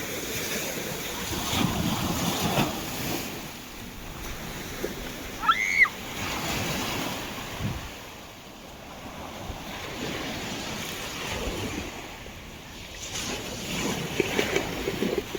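Surf washing in and out with wind on the microphone, swelling and easing in waves. About five and a half seconds in, a brief high-pitched cry rises and falls.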